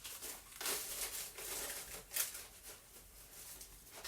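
Scrap paper rustling and crinkling as it is handled and sorted through by hand, with a sharper rustle about two seconds in and quieter handling after.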